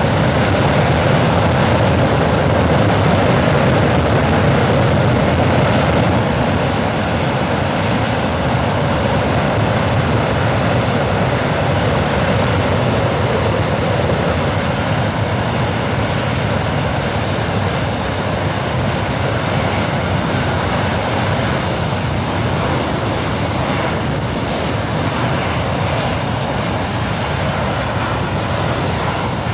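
English Electric Lightning's Rolls-Royce Avon turbojet running steadily on a ground test run, a loud, even rush that eases slightly about six seconds in.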